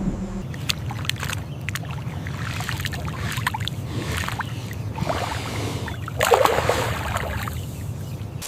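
Water sloshing and splashing over a steady low rumble, with a louder splash about six seconds in.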